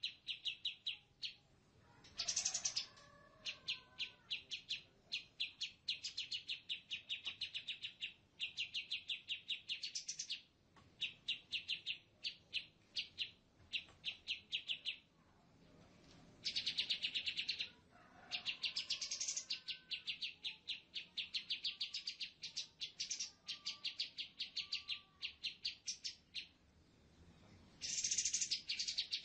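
Birds chirping: rapid, evenly repeated high chirps in runs of several seconds with short pauses between, and now and then softer, lower whistling calls.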